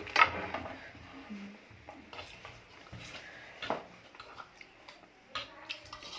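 Eating sounds during a mukbang: chewing and mouth noises with a few sharp clicks of dishes or utensils, the loudest just after the start and another a little more than halfway through.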